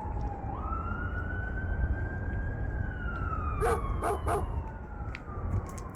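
Distant emergency vehicle siren wailing in slow rising and falling glides, over the low rumble of strong wind on the microphone. There are three short sharp sounds about four seconds in.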